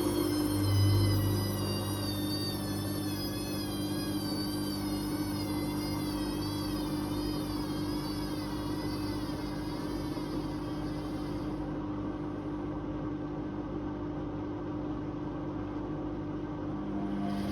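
Whirlpool Indiana 1400 washing machine running, its drum motor giving a steady hum under a high whine that wavers up and down in pitch. The whine drops out about two-thirds of the way through and returns near the end.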